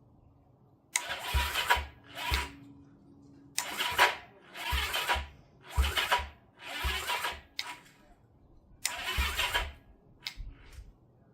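Electric starter cranking the 1971 Honda CB350 scrambler's parallel-twin engine in a series of short bursts, about a second each with pauses between, without the engine catching. This is the first start attempt after a rebuild, on a battery the owner later judges inadequate for the starter.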